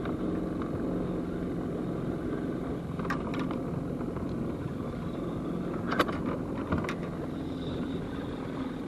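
Boat motor running steadily at trolling speed, with a few short sharp clicks about three, six and seven seconds in.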